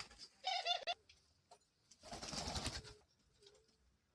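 Pet doves: a short dove call about half a second in, then a burst of wing flapping lasting about a second, two seconds in, as the hen drives her mate away from the cage.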